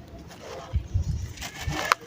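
Lumps of dried sand and cement crumbling in water, with soft thuds about a second in and again near the end, and a gritty crackle just before the end.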